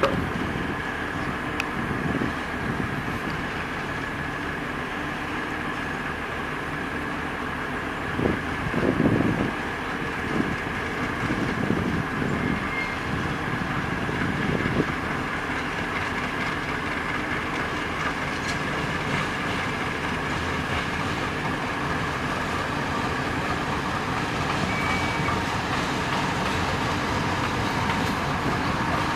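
A diesel-hauled passenger train passing, its coaches' wheels rolling steadily over the rails, briefly louder about eight to nine seconds in.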